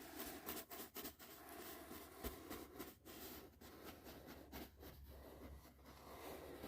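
Faint brush strokes: soft bristles rubbing in a continuous scratchy rustle, broken by many short irregular strokes.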